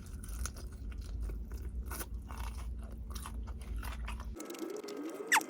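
Close-up crunching of crispy fried chicken being bitten and chewed: a steady run of crackly crunches that eases off about four seconds in. A brief sharp sound follows near the end.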